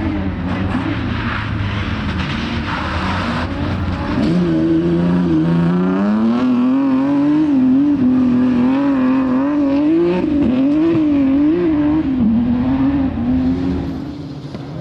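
Rally car engine running hard on a stage. It gets louder about four seconds in, its pitch climbs and then rises and falls again and again with the throttle, and it fades slightly near the end.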